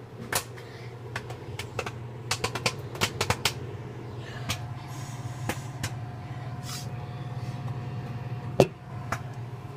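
Microwave oven running with a steady low hum while a bag of popcorn pops inside: scattered sharp pops at irregular intervals, bunched together about two to three and a half seconds in.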